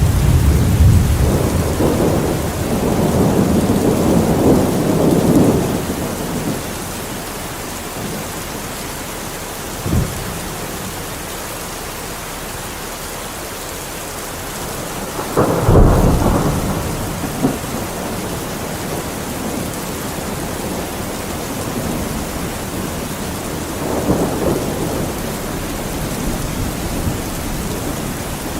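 Steady rain with thunder rolling in low rumbles. A sharp thunderclap hits about halfway through and rumbles off, with a shorter crack a few seconds earlier and another low roll near the end.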